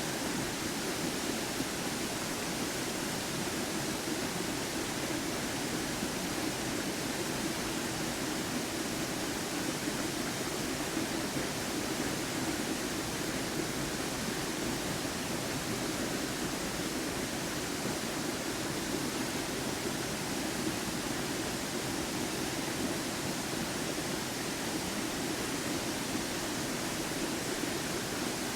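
Waterfall crashing steadily: an even, unbroken rush of falling water with a deeper band of roar beneath the hiss.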